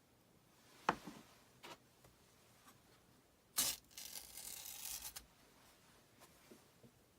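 Craft handling noises: a sharp knock about a second in, then a dry rasping, tearing or scraping sound lasting about a second and a half in the middle.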